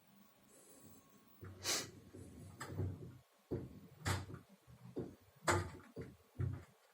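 A series of irregular knocks and thuds, about six over several seconds, each a dull low thump, the loudest with a sharp click on top.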